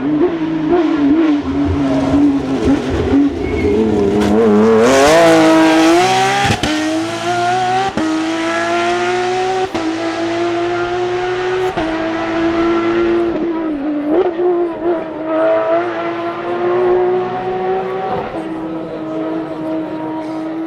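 Porsche 997 GT3 rally car's 3.6-litre flat-six engine driven hard. It starts low and uneven with sharp crackles, climbs steeply in pitch about four seconds in, then holds at high revs with short breaks at each gear change.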